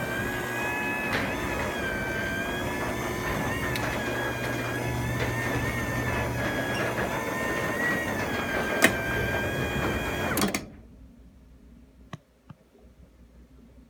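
Craftsman belt-drive garage door opener running as it raises the door: a steady hum under a wavering whine. It stops abruptly about ten and a half seconds in as the door reaches fully open, and a few faint clicks follow.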